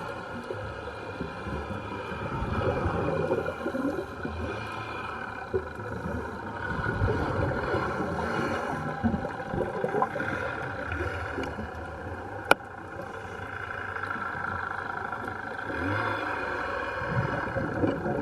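Strange droning noise: several steady held tones over a churning low rumble, with one sharp click about twelve seconds in. The uploader believes the noises are the voices of the Salem Express wreck's ghosts.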